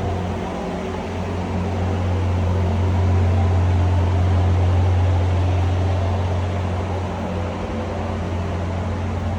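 Car engine idling with a steady low drone.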